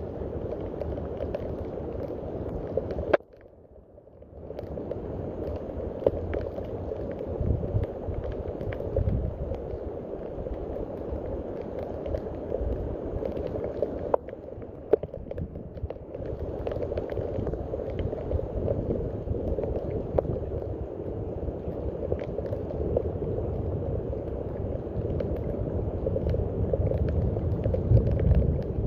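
Steady rain, a dense patter of drops over a low rumbling wash. It drops out abruptly for a second or so about three seconds in, then returns.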